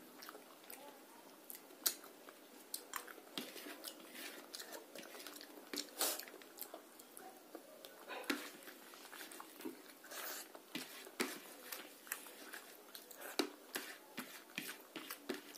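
Close-miked chewing of rice and fish curry eaten by hand, with many short, sharp mouth clicks and smacks at irregular intervals.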